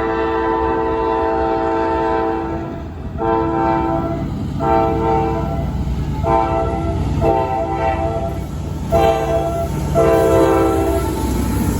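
CSX freight locomotive's multi-chime air horn sounding a long blast, then a string of about six shorter blasts with brief gaps, over the steady low rumble of the locomotive and train.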